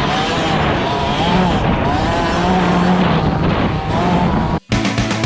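Dirt bike engines revving up and down as motocross bikes ride the track, the pitch rising and falling with the throttle. Near the end the engine sound cuts off abruptly and rock music with guitar begins.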